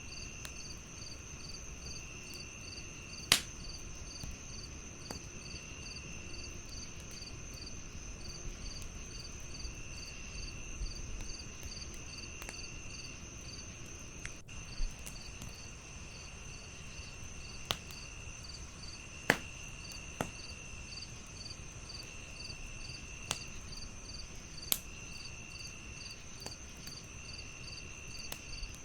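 Crickets chirping, several at once: a steady high trill, a fast pulsed chirp and a lower trill that comes and goes in short phrases. Under them a wood fire crackles, with scattered sharp pops, two of them loud, a few seconds in and about two-thirds through.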